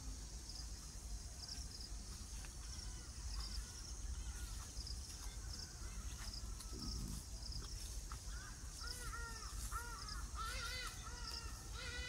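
A bird calling in a series of repeated rising-and-falling notes that starts about two-thirds of the way in and comes faster near the end, over a low wind rumble and a steady high hiss.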